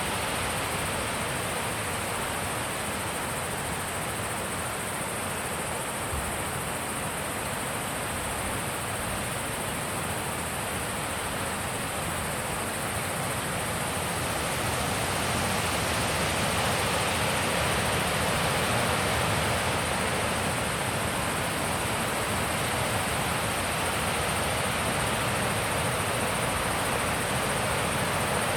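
Wind blowing steadily in a continuous rushing hiss, swelling louder about halfway through and staying up.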